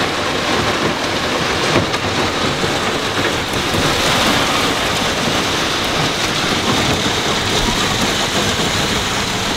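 Steady rush of shallow river water running over a rapid, with wind buffeting the microphone.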